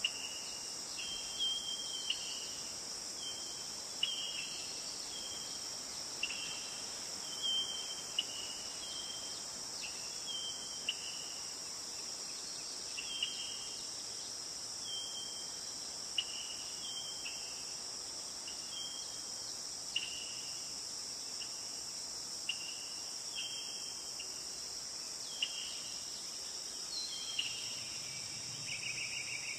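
Steady high-pitched insect chorus of crickets, with a bird repeating a short two-note call that steps down in pitch every one to two seconds.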